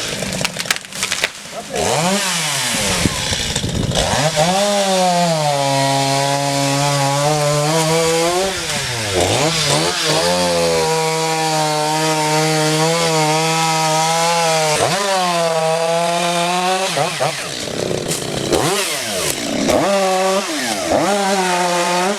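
Chainsaw cutting wood, its engine held at high revs for stretches of several seconds and dropping and climbing again several times as the throttle is eased and reopened, with a run of quick revs near the end.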